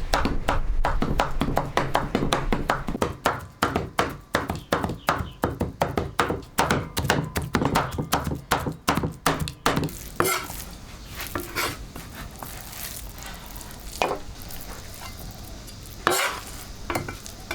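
Quick, even strokes of a kitchen utensil working food, about four a second, for the first ten seconds, then a few scattered knocks.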